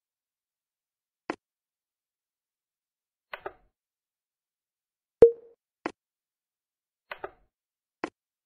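Sparse sharp clicks, some single and some in quick pairs, a second or two apart, with one much louder plop about five seconds in that rings briefly. Between them there is dead silence.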